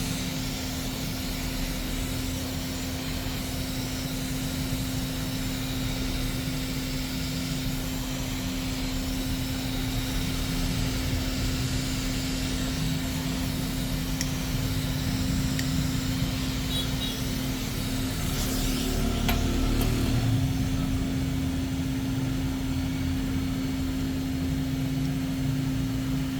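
Steady machine hum with one constant low tone over a rumbling background, unchanging throughout, with a single faint click about 19 seconds in.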